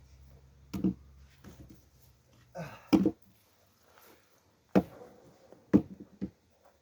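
Axe striking a log while splitting firewood: four heavy blows spaced one to two seconds apart, the second the loudest, with a lighter knock just after the last.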